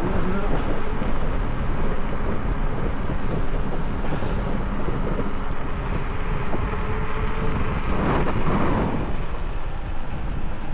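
Wind buffeting the microphone of a handlebar-mounted camera on a moving road bike, a steady rumbling rush. About eight seconds in, a louder rushing swell comes through with a short run of high ticks, about four a second.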